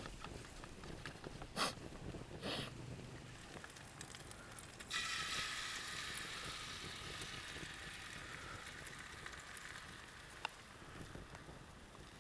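Food hitting a hot pan over a wood fire and starting to sizzle suddenly about five seconds in, the sizzle slowly dying down. Two short knocks come before it.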